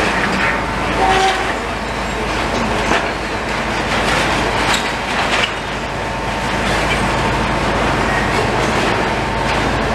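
A heavy engine running steadily, with a few sharp knocks and clanks over it.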